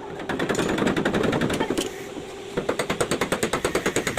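Rapid, evenly spaced rattle of sharp impacts, about a dozen a second, from a power tool working on the car body. The rattle eases about two seconds in and picks up again.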